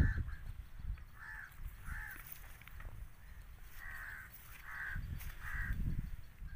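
A bird calling: about six short calls at uneven intervals, over a low rumble.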